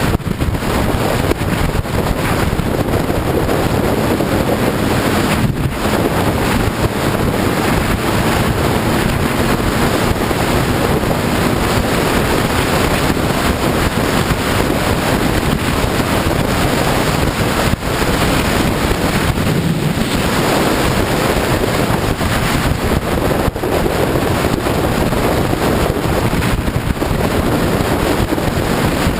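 Heavy wind rush on a motorcycle-mounted microphone while riding a sport bike at speed, with the engine's note faintly underneath.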